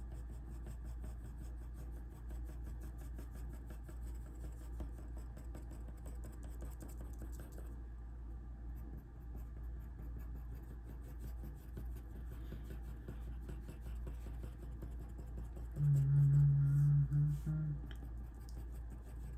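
Pencil scratching on sketchbook paper over a steady low background hum, with a brief louder low hum a few seconds before the end.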